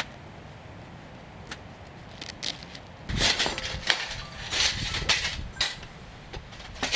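Handling noise: a few scattered clicks, then about halfway through a few seconds of dense rustling broken by sharp knocks.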